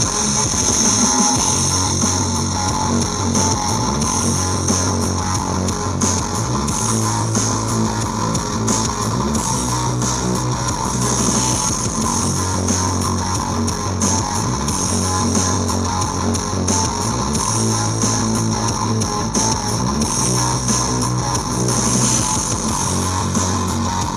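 Guitar-led rock music with a heavy bass line played loud through a large competition sound system.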